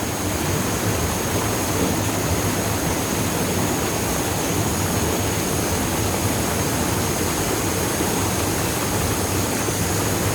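Waterfall pouring into a deep pool: a steady, even rush of falling water.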